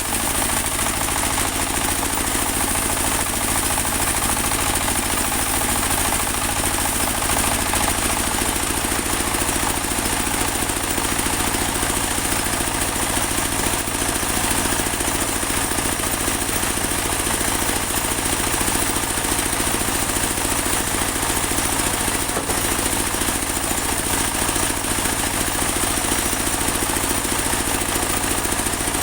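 Portable band sawmill running steadily, its engine going without pause and a constant high-pitched whine above it.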